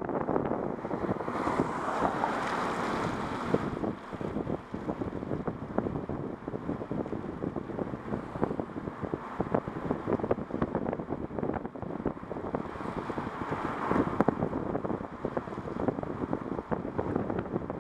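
Rapid, irregular clicking and clunking from a 2008 Subaru Outback on a tight, slow turn, the fault the car is being shown for. A rushing noise under it swells twice.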